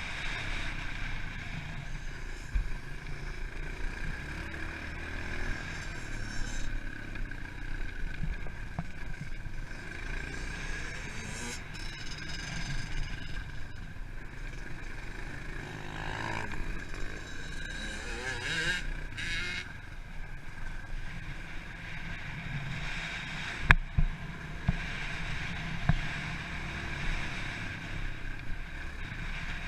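Pit bike engine running as the bike is ridden, with wind noise over the microphone. A few sharp knocks stand out about three-quarters of the way through.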